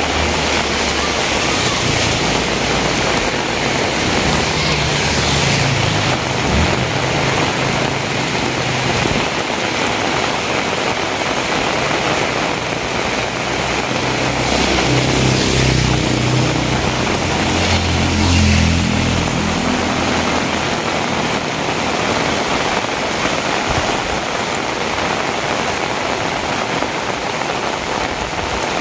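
Heavy rain pouring steadily, with the low hum of a motor vehicle's engine rising twice, briefly near the start and more strongly about halfway through.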